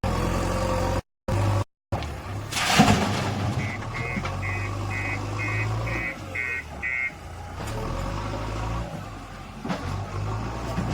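Heavy diesel machinery running with a steady low drone. The sound cuts out briefly twice near the start. About three seconds in there is a loud crash, and then a run of about eight short high beeps, roughly two a second.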